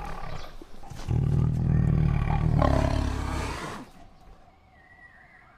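Tiger roaring: a long, deep roar that starts about a second in and fades out near the four-second mark, after a shorter, weaker sound before it.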